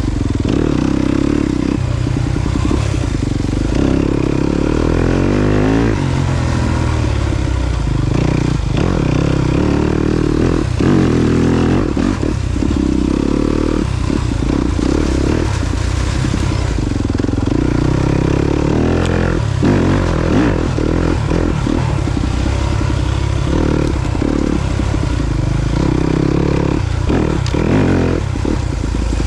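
Yamaha YZ250FX dirt bike's single-cylinder four-stroke engine running under load on a trail, its pitch rising and falling again and again as the throttle is opened and closed, with short breaks and clattering knocks between.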